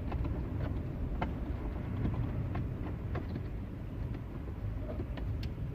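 Faint scattered clicks and rustles of a cable and plastic trim being handled in a car's fuse compartment, over a steady low rumble.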